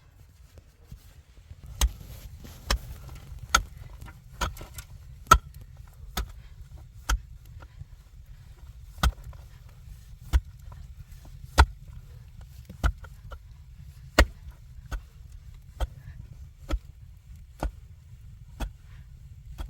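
An axe chopping wood: sharp single strokes at about one a second, starting about two seconds in, with a short pause midway, over a low steady rumble.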